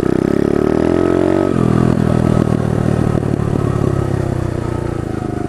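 Pit bike engine revving, its pitch climbing for about a second and a half, then dropping suddenly and running on at lower revs, easing off slightly toward the end.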